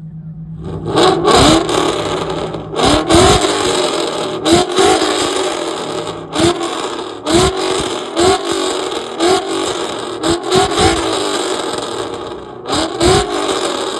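LS-swapped V8 car engine revved hard in about a dozen quick blips, each rising and dropping sharply, with sharp cracks from the exhaust at the rev peaks.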